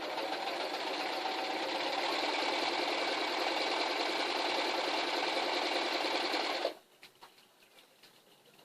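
Domestic sewing machine running steadily as it stitches through folded debris netting, stopping suddenly about seven seconds in.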